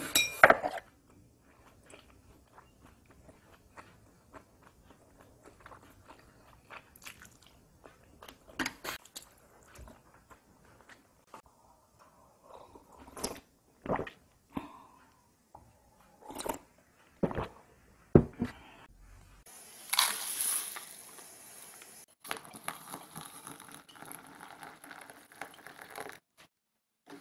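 Close-up eating: crunchy chewing of seasoned dallae (wild chive) greens, with chopsticks and a spoon clicking against glass bowls. A couple of seconds of hiss comes about twenty seconds in, followed by fainter rustling.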